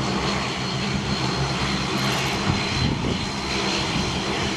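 Jet airliner engines running steadily, with a thin high whine over a broad rushing noise.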